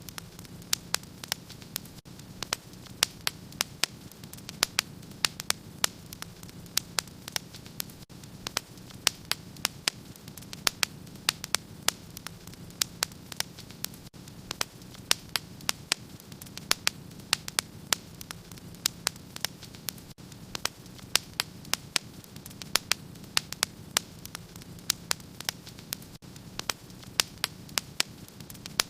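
Wood fire crackling in a fireplace: dense, irregular sharp pops and snaps, several a second, over a steady low rumble of flames.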